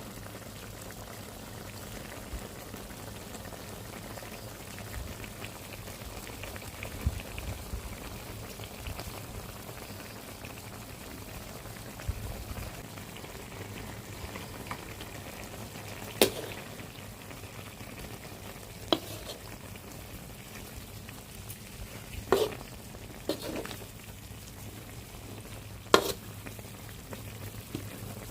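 Pork ribs cooking in a pot, giving a steady sizzling and bubbling, with about five sharp clinks of a utensil against the pot in the second half.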